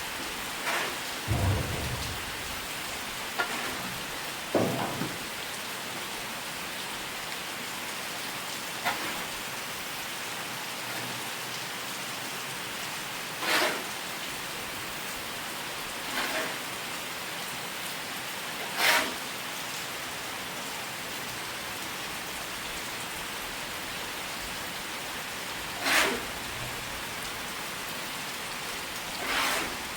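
Steady rain falling, an even hiss, with a brief louder splash every few seconds.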